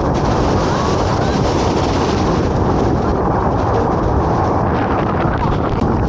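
Loud, steady noise of breaking surf at a big-wave beach, with wind buffeting the microphone.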